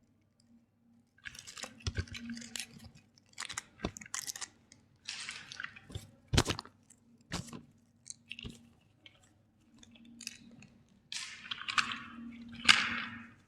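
Plastic toys and packaging being handled and crushed: irregular crinkling and crunching with sharp cracks and knocks, the loudest about six seconds in and near the end, over a faint low hum.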